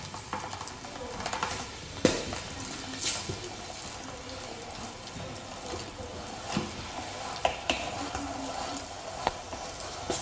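A few sharp clicks and knocks, as parts of a manual meat grinder are handled and fitted together. The loudest is about two seconds in, and a cluster comes near the end.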